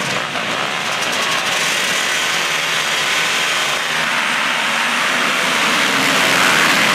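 Motocross motorcycle engines running and revving, a loud, dense buzz that grows a little louder near the end.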